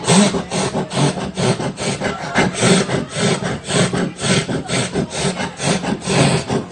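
Rhythmic breathy human vocal sounds, about three a second, like heavy laughing or panting.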